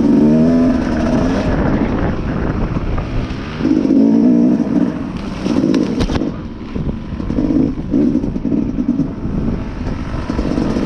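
Dirt bike engine running, its pitch rising and falling again and again as the throttle is opened and closed.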